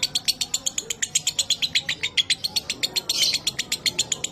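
Lovebird ngekek: a long, unbroken chattering trill of sharp high chirps, about ten a second.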